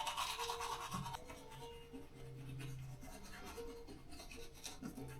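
Toothbrush scrubbing teeth in quick, continuous back-and-forth strokes.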